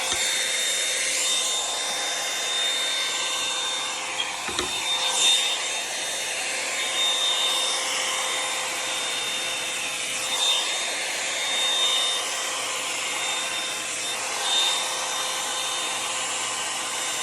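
Revlon One-Step hot-air brush dryer running with a steady high whine and air noise, its bristles rubbing through hair in repeated strokes. A short knock about four and a half seconds in.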